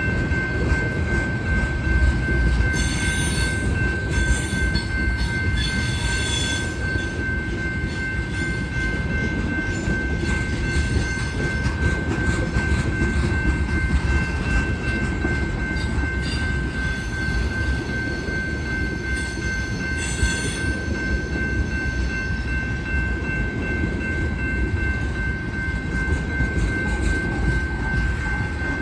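A freight train of tank cars rolls past with a steady low rumble of wheels on rail. Bursts of high-pitched wheel squeal come a few seconds in and again about twenty seconds in.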